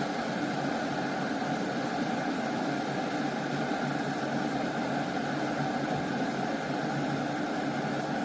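Glass electric kettle heating water: a steady rumbling hiss.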